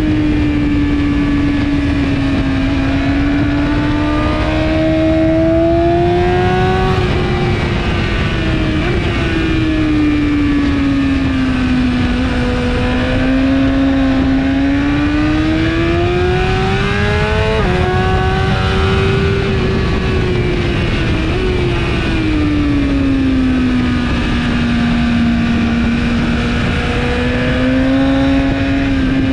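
2017 BMW S1000RR inline-four track bike with an Akrapovic exhaust, heard on board at speed over a steady rush of wind. The engine note climbs and falls over several seconds at a time, with a few sudden steps in pitch as gears change.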